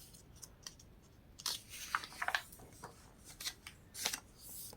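Paper pages of a book being handled and turned: a few short, faint rustles and flicks, with a softer sliding hiss near the end.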